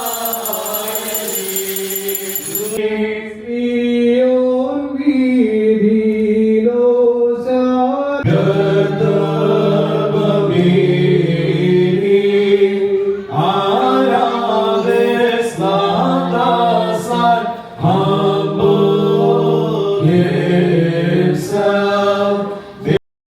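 Orthodox liturgical chant sung by a group of voices in a slow, held melody. It changes abruptly about three seconds in and cuts off suddenly near the end.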